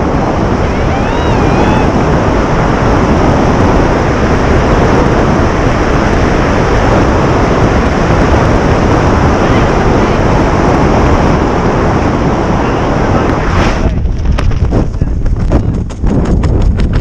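Loud, steady rush of freefall wind buffeting the camera microphone during a tandem skydive. Near the end the rush drops away into a choppy, rapid fluttering.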